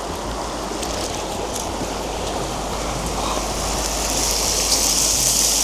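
Steady rushing water, growing louder and hissier over the last second or so.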